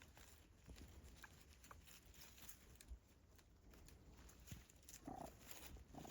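Near silence: faint rustling and small clicks, with a brief faint animal call about five seconds in.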